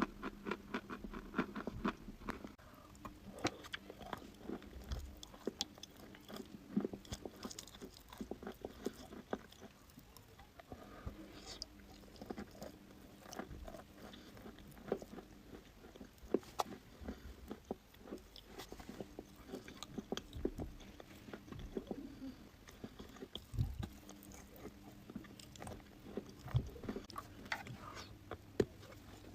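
A person biting and chewing dry, crunchy chalk: a run of sharp crunches and chewing sounds close to the microphone.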